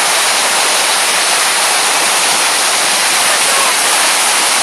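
Water pouring down the Williams Tower Waterwall, a large man-made waterfall fountain, in a loud steady rush.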